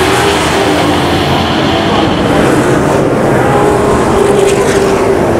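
Race truck engines running at speed: a loud, steady engine drone whose pitch wavers slightly.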